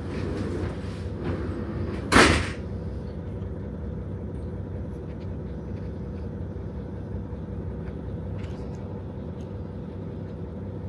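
KiHa 40 diesel railcar standing with its engine idling, a steady low hum. About two seconds in there is one short, loud burst of noise, like an air release.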